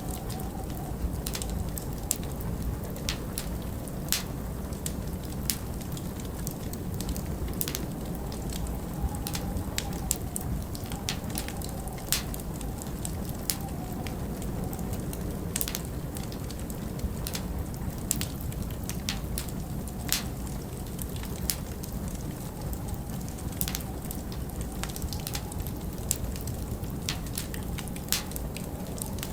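Wood fire crackling in a fireplace, with irregular sharp pops and snaps, over a steady low rumble of winter wind that carries a faint wavering howl.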